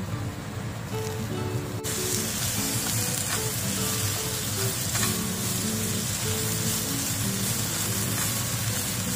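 Fried chicken pieces and minced garlic sizzling in a frying pan, the sizzle getting louder about two seconds in, with a few faint taps as the pieces are turned with chopsticks. Background guitar music plays throughout.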